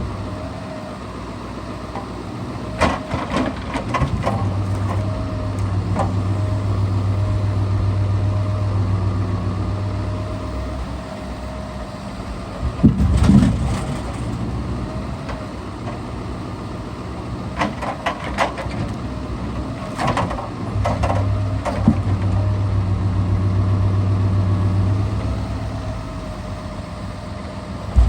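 Scania R650 timber truck's V8 diesel running, its engine speed rising twice for several seconds at a time as the timber crane's hydraulics work. Scattered knocks and one loud thump about halfway through come from timber being loaded.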